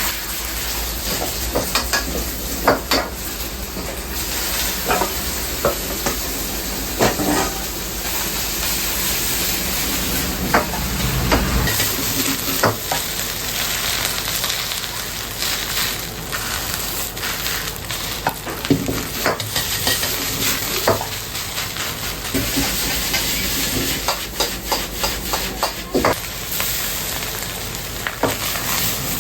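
Stir-frying in a wok: a steady sizzle with irregular clanks of the metal ladle against the pan. A low rumble underneath stops about twelve seconds in.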